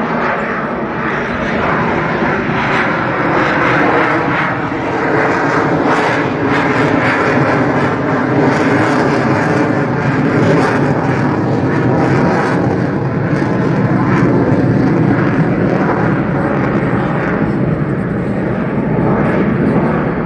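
Lockheed Martin F-22 Raptor jet fighter's twin turbofan engines making a loud, steady noise during a slow-speed pass, swelling slightly a few seconds in.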